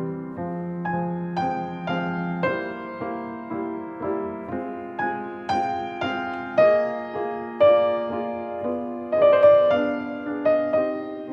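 Slow solo piano music, single notes and chords struck about once a second and left to ring, the melody climbing higher about halfway through.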